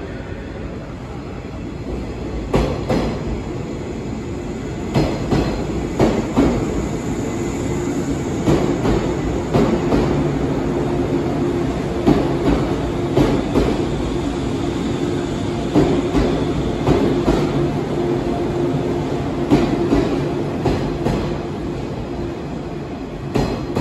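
Six-car JR 185 series electric train pulling in along the platform, its wheels clacking over rail joints in pairs about every second over a steady hum.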